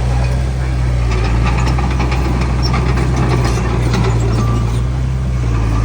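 Heavy diesel engine of earthmoving machinery running at a steady speed: a deep, even drone with light clicking and rattling above it.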